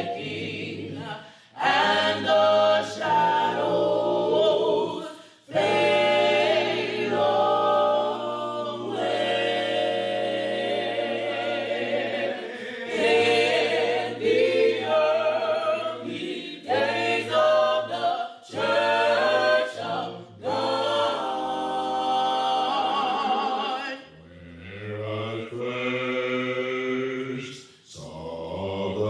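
A cappella church choir singing a slow gospel hymn, in long held phrases broken by short pauses, with low voices sustaining notes underneath.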